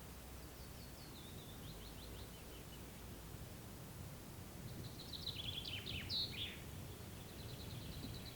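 Songbirds singing over a quiet, steady low background hiss: first a run of notes stepping down in pitch, then a busier, jumbled phrase in the middle, and a fast even trill near the end.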